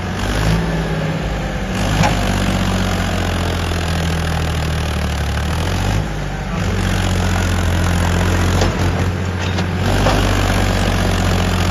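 Powertrac tractor's diesel engine running steadily under power, its note shifting a few times.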